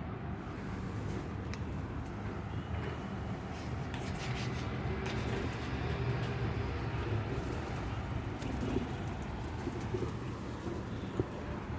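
Birds calling over a steady background.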